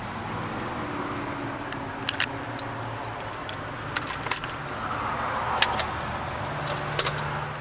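A bunch of keys jangling and clinking in short bursts, about four times, inside a truck cab over a steady low hum.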